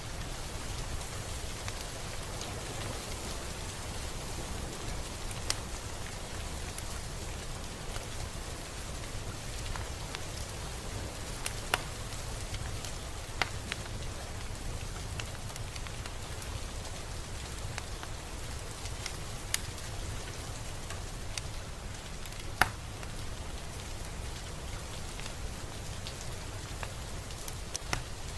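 Steady rain: an even hiss with a low rumble beneath it. Every few seconds a single louder drop strikes close by, the sharpest a little over two-thirds of the way in.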